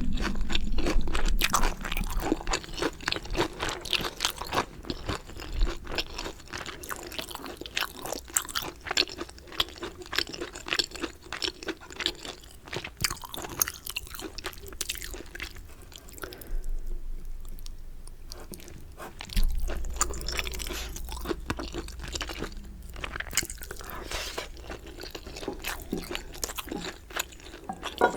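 Close-miked eating of galbi-sauce chicken: crunching bites and chewing with many small crackles. There is a short quieter pause a little past the middle.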